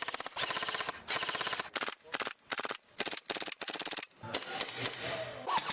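Airsoft gun firing on full auto in a string of short bursts of rapid shots, with brief pauses between them; the firing stops about four seconds in.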